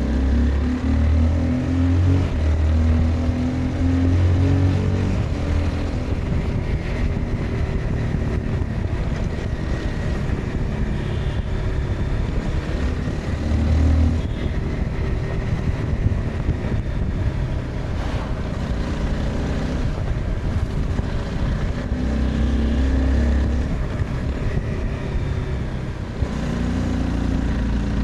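Honda CBR 250R's single-cylinder engine under way on a ride, its pitch rising and falling with throttle and gear changes, pulling harder in the first few seconds, briefly about halfway, and again late on, over a steady rush of wind and road noise.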